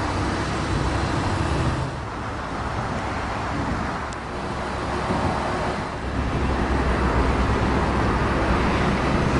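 Steady motor-vehicle noise: a low engine rumble under a hiss of road and traffic noise, the rumble growing stronger about two-thirds of the way through.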